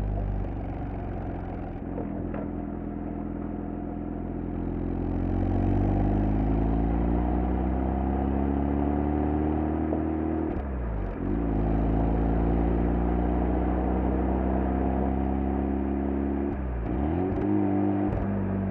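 Exhaust of a Mazda FD3S RX-7's 13B-REW twin-turbo rotary engine at full throttle, heard close up at the stock muffler. The pitch climbs steadily as the car accelerates, with a quick upshift about ten seconds in and another near the end.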